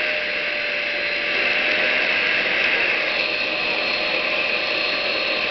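Hand-held vacuum cleaner running steadily, its motor giving a constant whine over a rushing noise.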